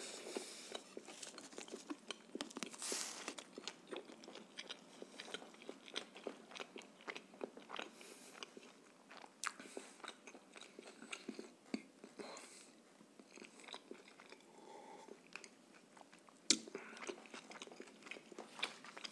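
A person chewing a mouthful of shawarma in lavash close to the microphone: soft wet chewing with many small mouth clicks and smacks, and a louder bite or rustle about three seconds in.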